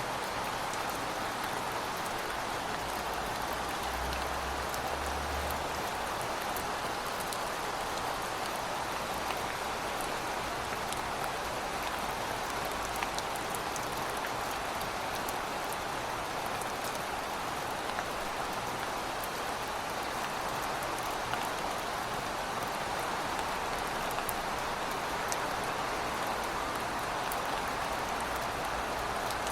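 Heavy rain falling steadily, a dense even hiss with scattered drop ticks. A faint low hum sits under it in the first half.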